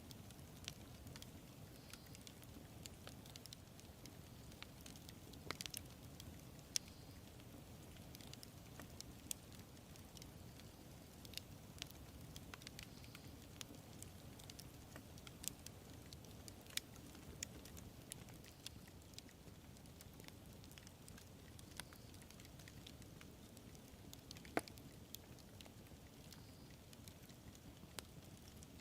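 Wood campfire burning, with irregular sharp crackles and pops over a steady low rumble of flame.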